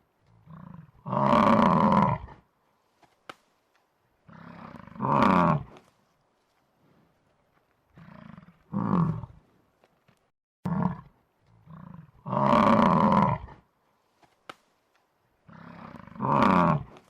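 A large animal calling loudly again and again: about six calls, each one to two seconds long, several starting with a quieter lead-in before the loud part.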